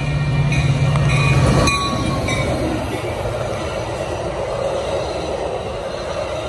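A Metra commuter train passes close by. The diesel locomotive's engine drone is loud until the locomotive goes past, a little under two seconds in. After that comes the steady rumble of the bilevel coaches rolling along the rails.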